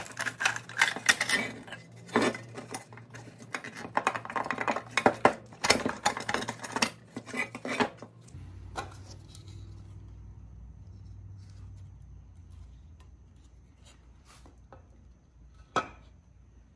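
Rusty pressed-steel Tonka toy truck cab and its plastic window insert being worked apart by hand: dense scraping, clicking and clattering of metal and plastic for about eight seconds. Then a few scattered taps as parts are set down on the bench, with one sharper click near the end.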